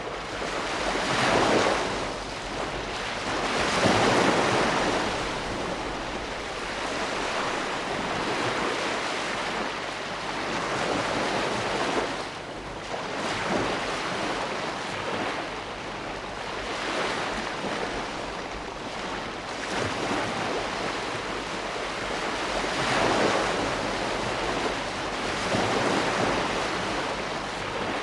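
Ocean waves breaking and washing on a shore, a steady surf hiss that swells louder with each wave every few seconds.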